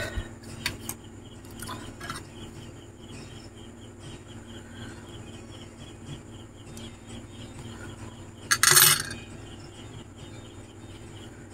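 A few small clicks and taps as a keypad phone is handled and switched on, over a steady low hum and a fast, regular chirping in the background; a short louder rustling scrape comes about eight and a half seconds in.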